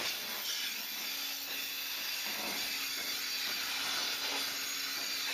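Steady hiss and hum of a vacuum milking system in a dairy parlour as milking units are attached to the cows' teats.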